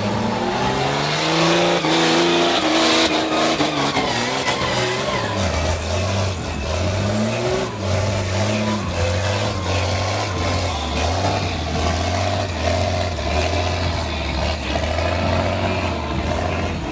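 Mud truck engines revving, the pitch climbing about a second in, then holding and stepping up and down with the throttle.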